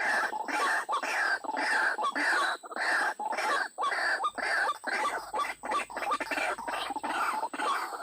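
White-breasted waterhen's harsh, croaking calls, repeated rapidly at about two to three a second without a break.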